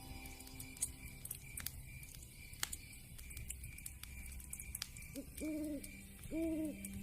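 Log fire crackling, with irregular sharp pops and snaps. Near the end come two low, even-pitched hoots, each lasting a little over half a second.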